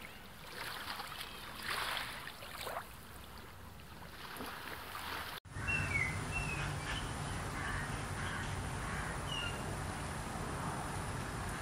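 Soft water sounds, then an abrupt cut to outdoor ambience: a steady low hum with a few short, falling bird chirps.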